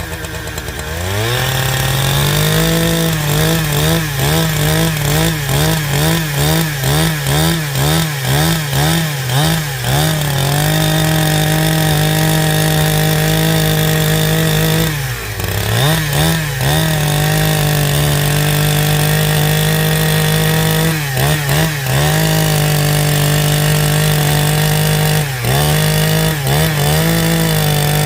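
Chainsaw revving up about a second in, then running at high speed while cutting wood. Its pitch dips about twice a second for several seconds, then only a few more times.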